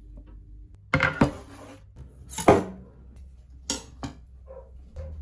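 Pots, pans and cutlery clattering in a kitchen: about five sharp clanks and knocks, the loudest about two and a half seconds in.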